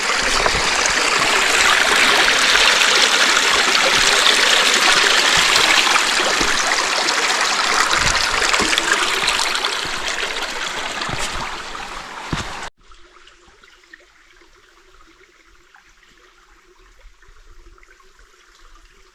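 Forest creek rushing over stones, a steady loud rush of water. About 13 seconds in it cuts off abruptly to a much quieter, faint background.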